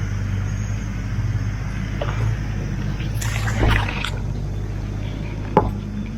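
A four-wheel-drive vehicle's engine running steadily at low revs as it crawls over rocks through a creek, with a brief noisy burst a little past halfway and a single sharp knock near the end.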